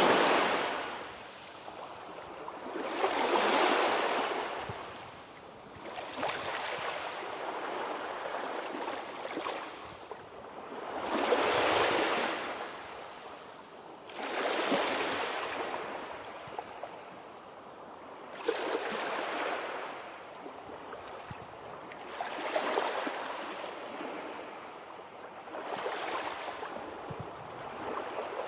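Sea waves breaking and washing up the shore, swelling and fading in a slow rhythm about every three to four seconds.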